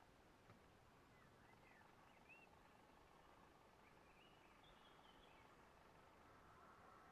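Near silence with faint bird calls: a few short chirps and whistles, some rising and some falling, about a second in and again about four seconds in, over a faint steady hum.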